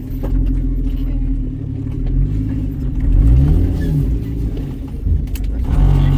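Four-wheel drive's engine running under load on an off-road track, heard from inside the cab, with the revs rising and falling a couple of times.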